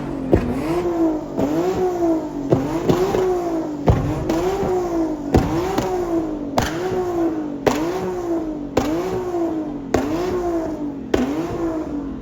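Car engine revved hard over and over, about once a second: each time the pitch climbs quickly and sinks back, with a sharp crack at the start of each rev.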